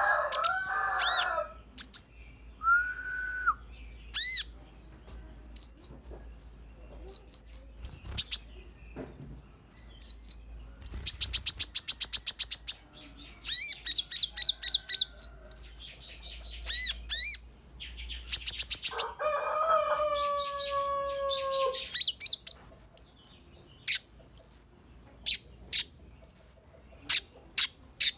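Konin songbird singing a fast, varied song of high chirps and rapid trills, filled with mimicked pleci (white-eye) calls, broken by a few lower whistled notes.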